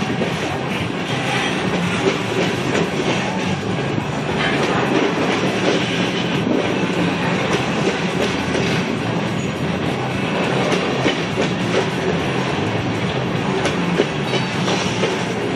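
Norfolk Southern coal train rolling past: steady rumble and clatter of its wheels on the rails.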